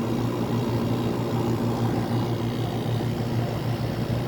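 1985 White Westinghouse 5000 BTU window air conditioner running on cool: the Sanyo rotary compressor gives a steady, smooth low hum under the even rush of its fans. The compressor has built head pressure and is cooling normally.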